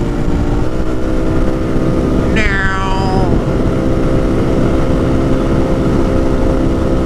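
Lifan KP motorcycle engine running at a steady road speed under heavy wind rumble. About two and a half seconds in, a brief high whine falls sharply in pitch over about a second.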